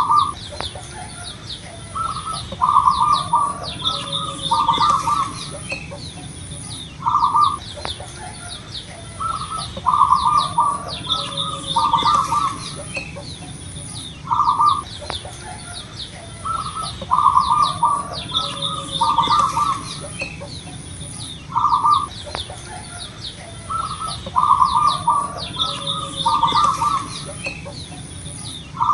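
Zebra dove (perkutut) singing its cooing song: a short opening coo followed by a run of rolling, pulsed coos. The phrase repeats about every seven seconds. Small birds chirp high and faintly behind it.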